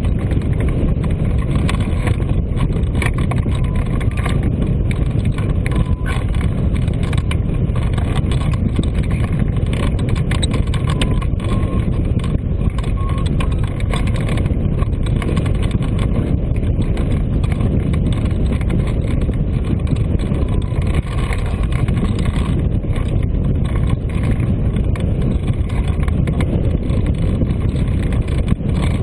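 Steady, loud wind rushing over the microphone: the airflow of a hang glider in flight.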